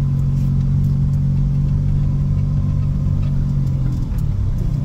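Small car's engine running at low speed, heard from inside the cabin as a steady low drone that shifts in pitch about four seconds in.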